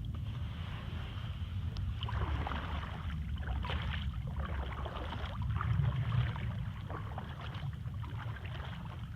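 Kayak paddle strokes splashing in the river in a regular rhythm, starting about two seconds in, over a steady low rumble of wind on the microphone.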